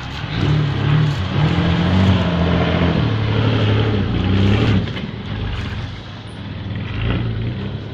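Mercedes-Benz OM603 straight-six diesel in a Dodge W200 pickup revving up, holding high for about four seconds, easing off, then picking up again about seven seconds in.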